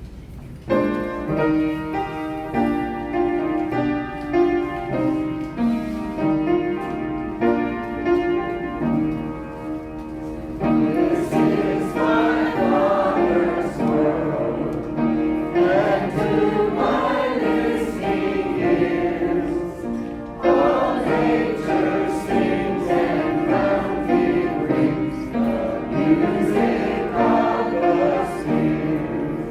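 Choir singing, starting about a second in and growing fuller about a third of the way through.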